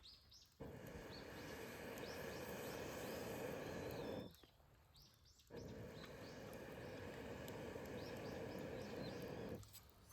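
Outdoor ambience with a steady hiss and many short, high, rising chirps of animal calls, broken twice by brief near-silent gaps.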